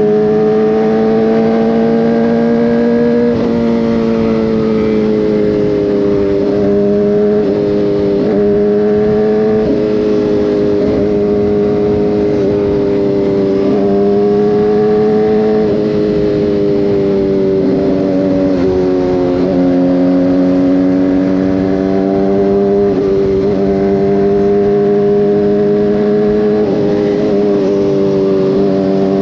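Motorcycle engine running under way, its revs repeatedly climbing and then falling off sharply with throttle changes and gear shifts.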